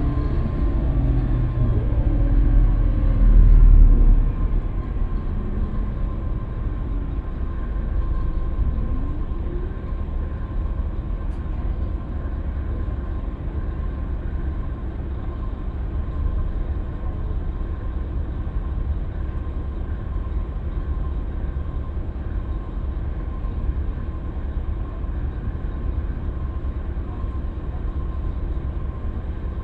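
Scania K320UB city bus running: the engine note falls in pitch over the first few seconds, then settles into a steady low rumble with a faint steady whine.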